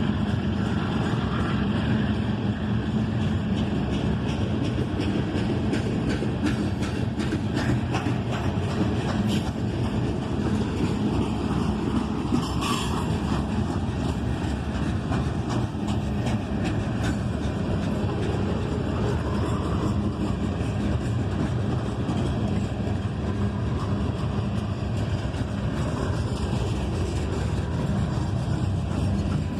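Herzog rock train rolling past: a steady rumble of steel wheels on rail with a constant run of clicks and clacks.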